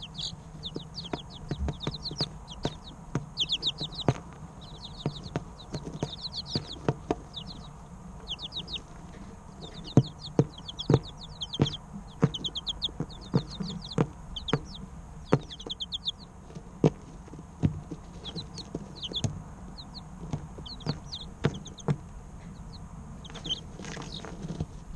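A group of three-week-old chicken chicks peeping, in quick runs of short falling chirps, mixed with many sharp taps and clicks over a steady low hum.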